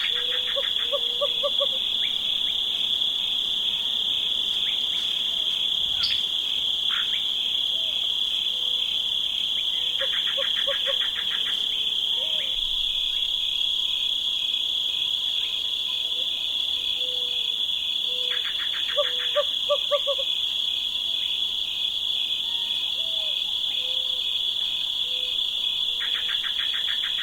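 Western screech owls calling from a willow: short series of low hoots that speed up, repeated roughly every nine seconds, each with a brief rapid trill. Under them runs a loud, steady, high-pitched chorus of insects.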